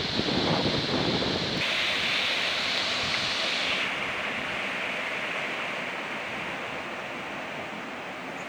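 Powerscourt Waterfall's water crashing down close by: a steady rushing hiss. Wind buffets the microphone for about the first second and a half.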